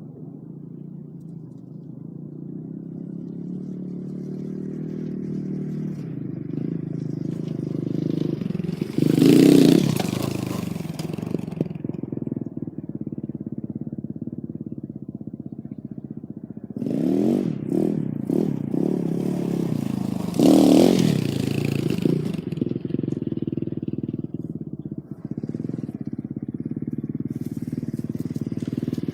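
Dirt bike's 230 cc four-stroke single running throughout, growing louder over the first several seconds. The engine revs hard about nine seconds in, and again in two surges around seventeen to twenty-one seconds, where the pitch rises and falls.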